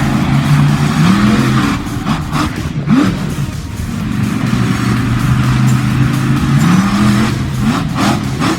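Monster truck engine running and revving, its pitch rising twice in long climbs.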